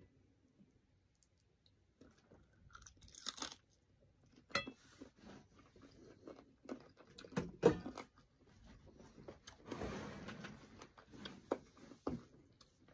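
Close-up chewing and crunching of chicken feet adobo, in irregular bites and crunches, the loudest just over halfway through.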